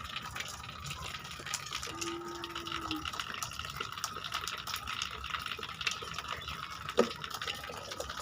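Steady running water, gushing evenly, with scattered small clicks. A short low tone sounds about two seconds in, and a sharp knock comes about seven seconds in.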